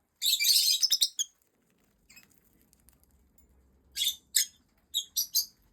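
Lovebirds squabbling: about a second of dense, shrill screeching chatter, then five short, sharp calls a few seconds later.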